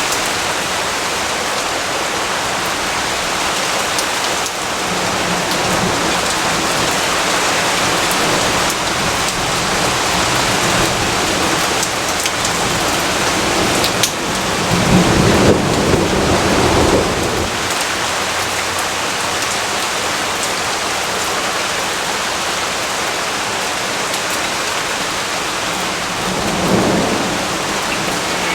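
Steady rain falling. A low rumble of thunder swells about halfway through and lasts a few seconds, and a shorter rumble comes near the end.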